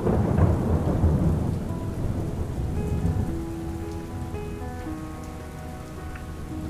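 Recorded rain ambience of steady rainfall, with a roll of thunder that is loudest at the start and fades over the first two seconds. Slow, sustained background music notes come in about three seconds in.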